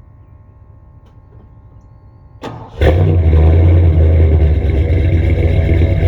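1987 Ford F350's 460 (7.5-litre) big-block V8 with a Holley 750 carburettor, cold-starting through a single 2.5-inch Magnaflow exhaust. After a faint hum, a brief crank about two and a half seconds in, then the engine catches and runs loud and steady.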